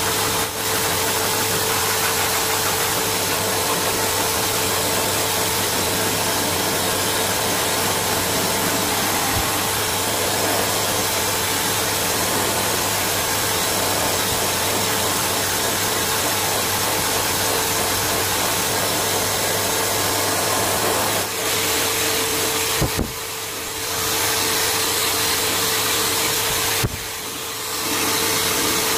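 Electric blow dryer running steadily, a rushing airflow over a constant motor whine; the noise drops briefly twice near the end.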